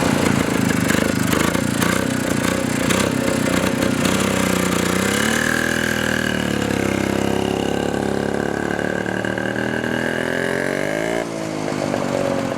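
Yezdi D250 Classic's single-cylinder two-stroke engine running, uneven at first, then revved up about five seconds in and held there before the revs drop back near the end.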